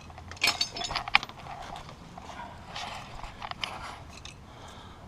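Irregular clicks, taps and clinks of hand tools and plastic sensor-wire clips being worked loose on a wheel hub. They are densest about half a second to a second in, with a few more around three seconds.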